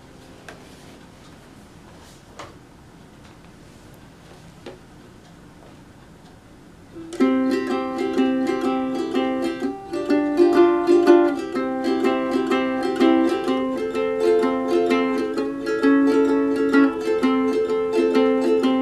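A few faint clicks in near quiet, then about seven seconds in a ukulele starts strumming chords, bright and ringing, at a steady rhythm.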